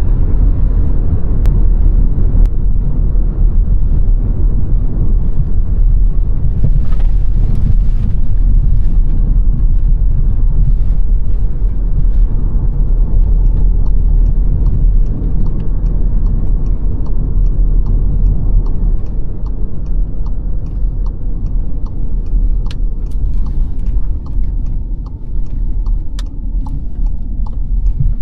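A car being driven at steady speed: a loud, steady low rumble of tyres and engine. About halfway through, faint regular ticks begin, about two a second.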